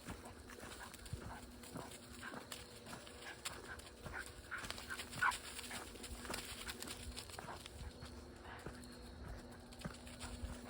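Footsteps of a person walking along a forest trail, short crunching steps at about two a second, with a faint steady hum beneath.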